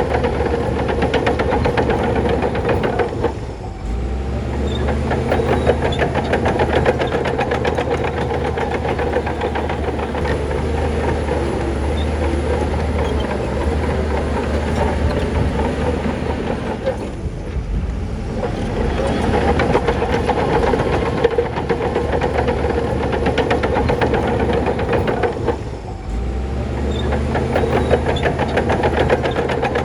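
Crawler bulldozer working: the diesel engine runs under load while the steel tracks clatter steadily. The engine briefly eases off three times, about 3 s, 17 s and 26 s in.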